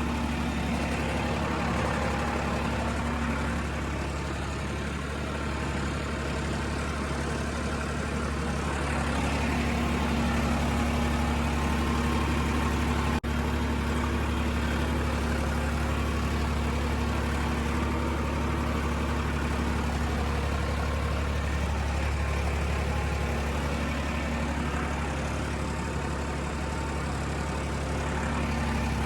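Tractor engine running steadily with a deep, even hum. There is a brief dropout with a click about thirteen seconds in.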